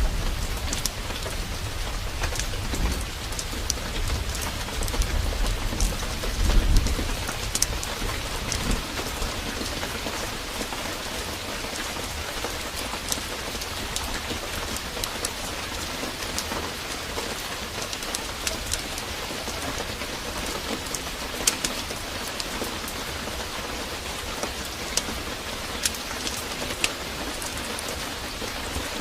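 Heavy downpour of rain, a steady hiss with scattered sharp drop ticks. A low rumble of thunder swells in the first few seconds, peaks around six or seven seconds in and has faded by about nine seconds.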